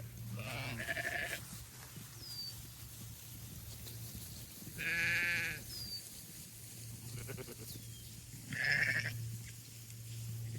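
Sheep bleating, three wavering calls spread a few seconds apart, over a steady low hum.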